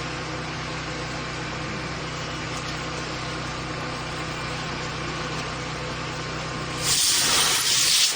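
A methane rocket engine test stand hums steadily, then about seven seconds in a loud rushing hiss of gas starts suddenly as the engine test begins.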